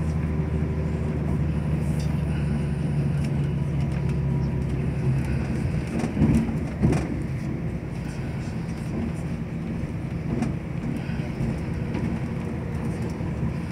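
Cabin noise inside a moving diesel passenger train: a steady rumble of wheels on rail under a low engine drone that eases off about five seconds in, with two short knocks about a second apart soon after and a few faint clicks later on.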